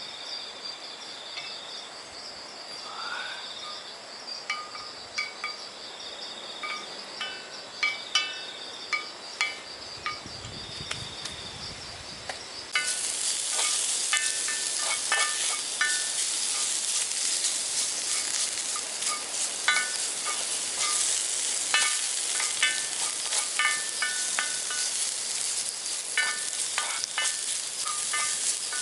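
Metal utensil clinking and scraping against a cooking pan while insects trill steadily; about halfway through a loud sizzle starts suddenly as vegetables go into the hot pan, and the stirring clinks carry on over the frying.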